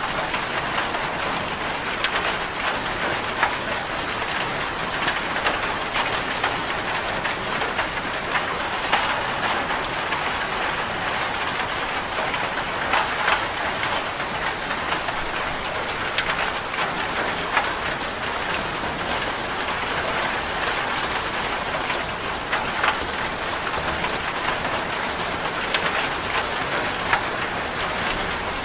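Steady rain, an even hiss, with scattered sharp ticks throughout.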